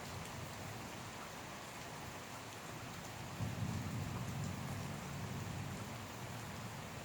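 Steady rain falling, with a low rumble of thunder rolling in about halfway through and carrying on.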